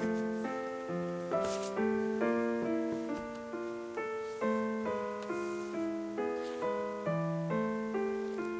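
Background piano music: a gentle, steady melody with chords, notes struck about twice a second and fading after each stroke.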